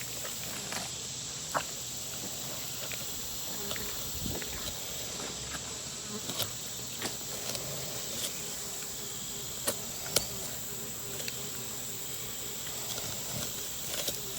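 Yellow jackets buzzing around, over a steady high insect trill, with a few scattered sharp clicks and taps.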